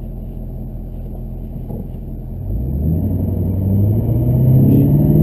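Chevrolet Duramax LB7 6.6-litre turbo-diesel V8 running at low revs, then, about two and a half seconds in, accelerating hard, its note rising in pitch and growing louder.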